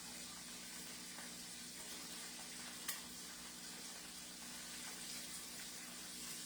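Battered chicken pieces deep-frying in canola oil, a steady sizzle, with one short click about three seconds in.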